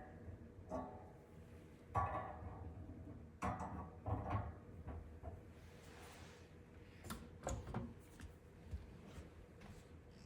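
Knocks, clatters and scrapes of dish drying rack parts being handled and fitted together, with a few sharp clicks about seven seconds in.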